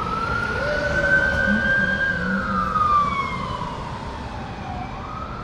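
Fire apparatus electronic sirens wailing on an emergency response: one siren sweeps up quickly, holds high, slides slowly down and sweeps up again near the end, while a second, lower siren wails underneath over a steady low rumble of traffic.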